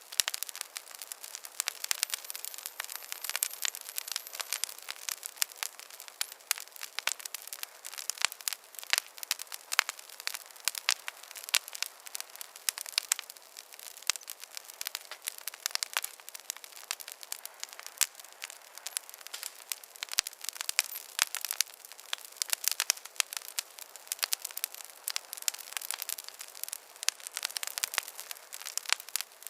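Wood campfire crackling: a dense, irregular run of sharp pops and snaps over a soft hiss, with almost no low rumble.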